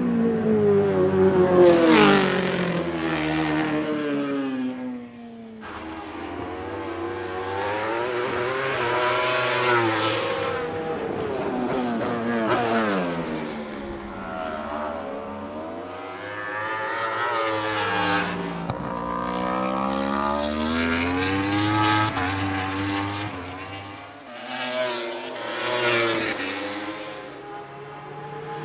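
World Superbike race motorcycles running on track. Their engines rev up and down through the gears, with several loud pass-bys whose pitch drops as each bike goes by.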